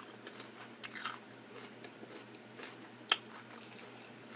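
A person chewing a mouthful of salad close to the microphone, with soft wet mouth clicks and one sharp click about three seconds in.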